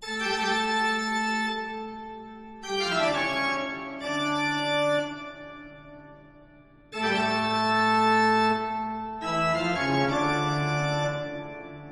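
Organ music. A held chord is followed by a quick descending run and a low sustained chord that fades; the phrase starts again about seven seconds in.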